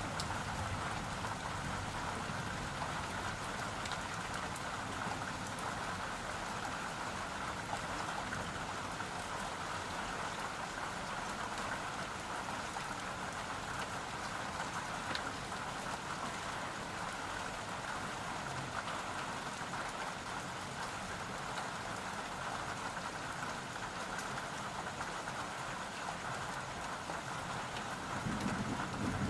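Steady rain falling, an even hiss with the odd single drop ticking. Near the end a low rumble starts to build.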